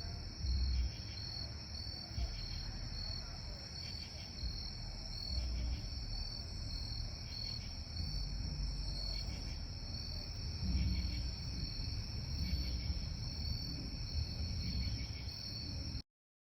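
True katydids calling, short rasping 'katy-did' calls repeating about once a second over a steady high insect trill. The sound stops abruptly near the end.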